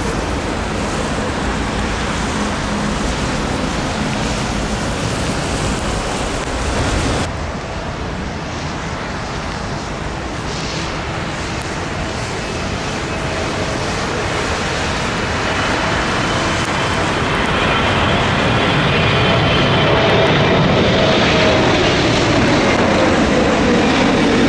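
Wind rushing across the microphone, then a jet airliner approaching to land: its engine whine builds and grows louder over the last ten seconds or so.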